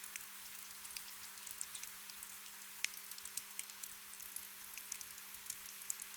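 Gentle rain, a steady patter of drops with many separate sharp drip ticks, one louder drip near the middle. A faint steady low hum runs underneath.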